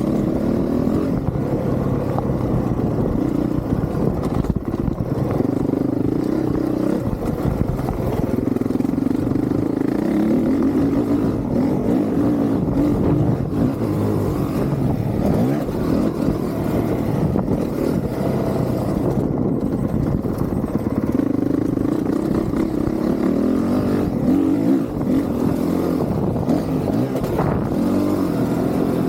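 Honda CRF450R's single-cylinder four-stroke engine under hard riding, its pitch climbing and dropping over and over as the throttle is opened and shut.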